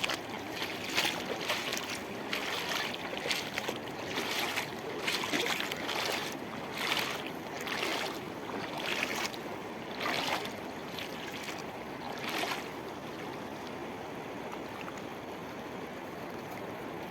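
Rushing river water, a steady rush, with short splashes every second or so for about the first twelve seconds before only the steady rush remains.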